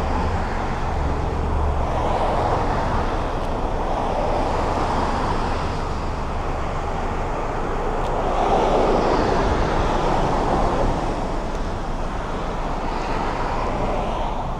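City traffic noise heard from a moving bicycle: a steady rush of cars and tyres on the road, swelling louder for a few seconds about eight seconds in.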